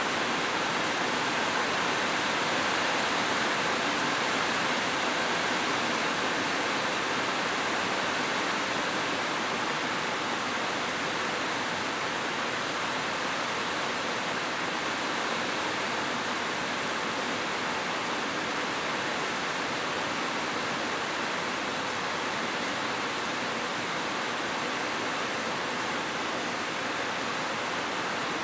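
Heavy rain falling steadily, a dense, even hiss without separate drops standing out.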